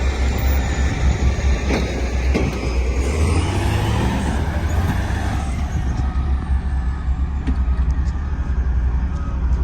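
Heavy diesel road-roller engine running with a deep, steady rumble. A broad hiss over it dies away about halfway.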